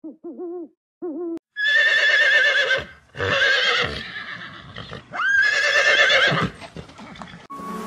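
Horse whinnying: three loud, quavering neighs about a second apart, after a few short low calls in the first second and a half.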